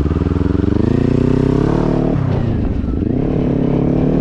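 Motorcycle engine accelerating away from a stop. It revs up, shifts up a gear about two seconds in, then climbs again and settles.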